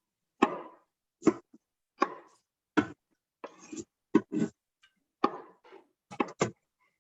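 Knife chopping cauliflower florets on a cutting board: about ten separate crunching cuts, unevenly spaced at roughly one to two a second.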